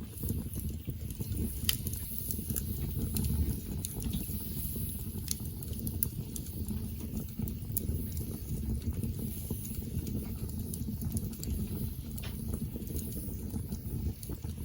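Wood campfire burning, with scattered sharp crackles and pops at irregular moments over a steady low rush.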